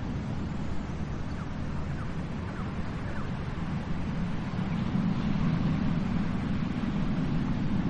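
Steady low rush of ocean surf, growing louder about five seconds in.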